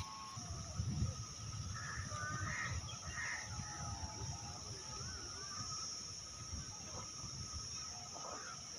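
Rainforest ambience: a steady high-pitched drone of insects, with birds calling a few times, mostly in the first half, over an uneven low rumble.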